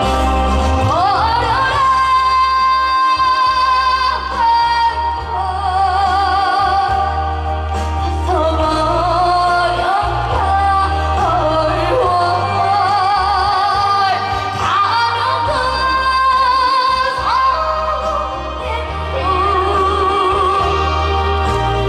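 A female vocalist singing a Korean trot song with pronounced vibrato on held notes, over instrumental accompaniment with a steady bass line.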